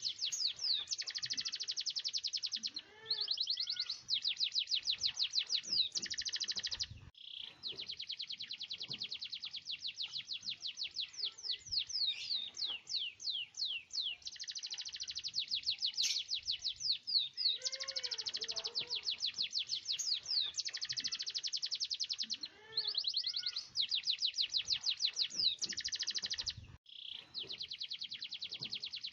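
Domestic canary in full song, singing long rolling trills of rapid, evenly repeated high notes. Each roll lasts several seconds before shifting to a new phrase, with a few brief breaks.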